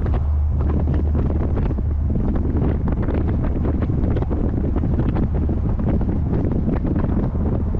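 Heavy wind buffeting on the microphone of a moving C3 Corvette, in irregular gusts over a steady low drone from the car under way.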